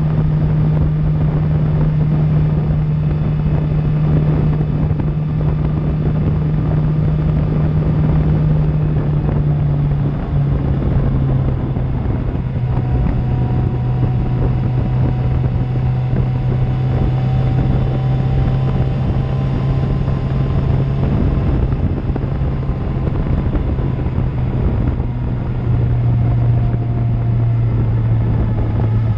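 2000 Suzuki GSX-R750's inline-four with an Akrapovic exhaust, running at steady cruising revs; its note steps down in pitch about ten seconds in and holds there. Heavy wind noise on the helmet-mounted camera's microphone.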